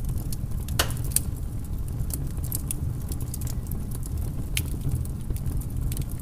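Wood fire burning, with irregular sharp crackles and pops from the logs over a steady low rumble; one louder pop about a second in.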